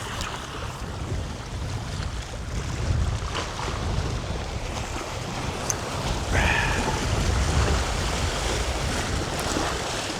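Wind buffeting the microphone over water lapping at the bay shore, with a few faint ticks and a brief higher sound about six seconds in.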